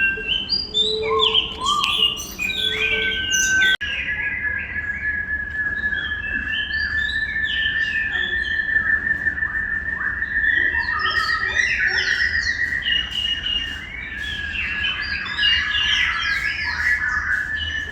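Many birds chirping and calling over one another in quick, overlapping short notes. From about four seconds in, a steady high whistling tone runs beneath the calls.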